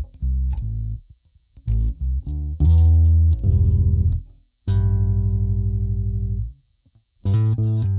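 Epiphone EB-0 SG-style electric bass played solo: a string of short plucked notes, then a quickly repeated note, then one long held low note that stops about six and a half seconds in. A fresh run of notes starts near the end.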